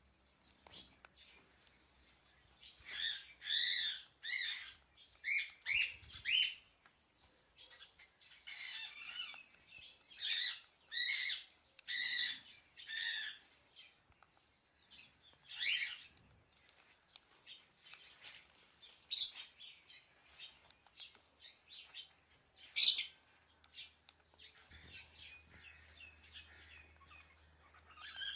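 A parrot giving short chirping calls in runs of several at a time, scattered singly later on, with one sharp louder call a little past the two-thirds mark.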